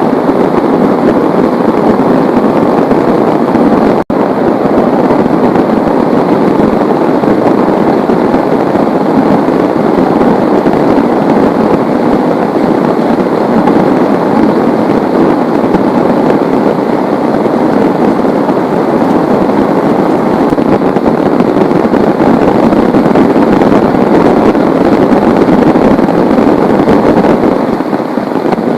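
Heavy rain pouring, a loud dense steady patter with no let-up. The sound drops out for an instant about four seconds in.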